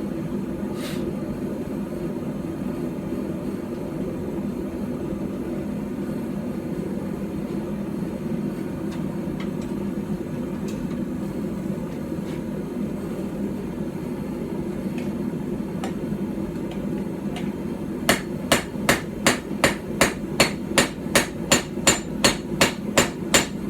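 A steady low rushing hum for most of the time, then, about three-quarters of the way through, a small hand-forged hammer starts striking hot steel on a stump anvil in quick, even blows, about three a second.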